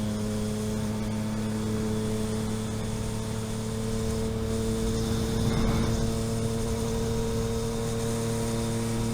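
A vehicle engine running steadily at an unchanging pitch, with a brief rush of noise about five and a half seconds in.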